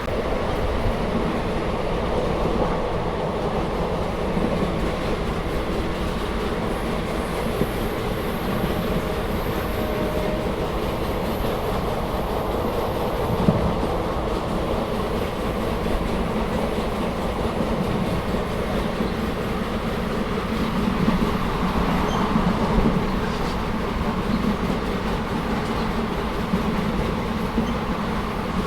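Passenger train running along the line, heard from on board: a steady rumble of wheels on rails, with a single knock about 13 seconds in.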